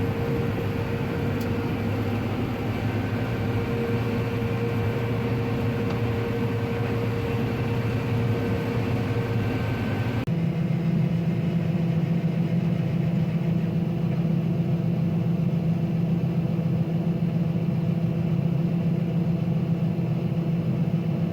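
Combine harvester running steadily while shelling corn: a continuous machine hum with a steady whine over it. About halfway through, the sound changes suddenly to a deeper, steadier drone with less hiss.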